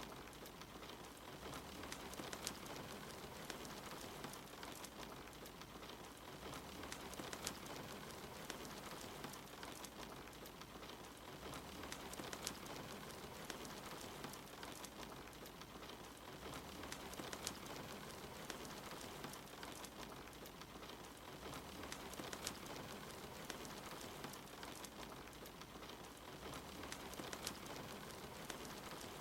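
Steady rain hiss mixed with a wood fire crackling, sharp pops scattered through it. The mix repeats about every five seconds.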